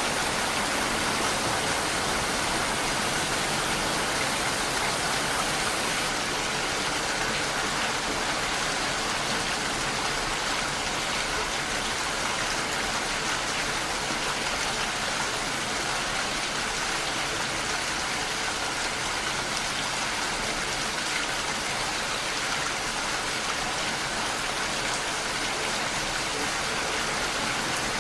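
Steady rain falling, a constant even hiss with no breaks or changes in strength.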